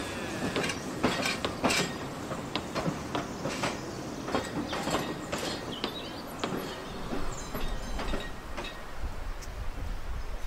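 Narrow-gauge Talyllyn Railway train running past, its wheels clicking irregularly over the rail joints; the clicks thin out and fade after about six seconds, leaving a low rumble.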